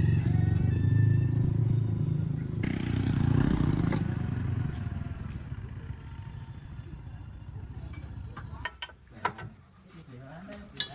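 A motor vehicle engine running and fading away over about eight seconds, with a short hiss of noise a few seconds in. Near the end come a few sharp knocks.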